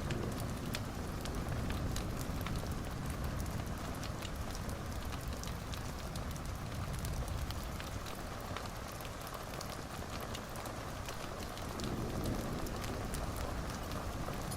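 Wood fire in a fireplace crackling: a steady low rush of burning with many small irregular pops and snaps throughout.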